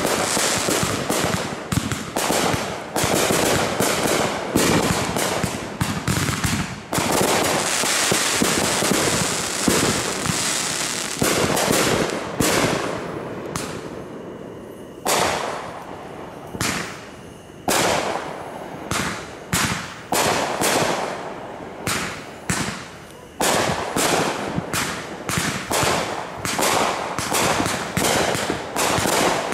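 Aerial fireworks bursting in rapid volleys of sharp bangs and crackle. The volleys thin to a few scattered reports about halfway through, then pick up again in quick succession near the end.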